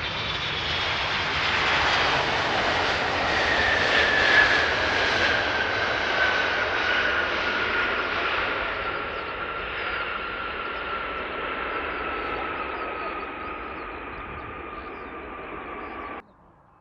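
Large jet airliner on landing approach passing close by, its turbofan engines' whine sliding down in pitch as it goes past. The noise swells to its loudest about four seconds in, fades slowly, and cuts off abruptly near the end.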